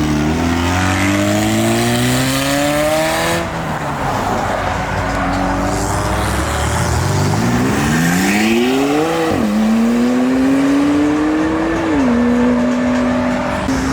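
A car engine accelerating hard through the gears: its pitch climbs in long pulls, with sudden drops at each upshift, one about three seconds in and two more near the end.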